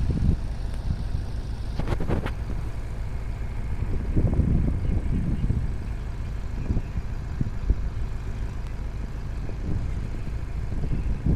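Heavy diesel machinery running with a steady low rumble that swells now and then, with a few sharp knocks about two seconds in.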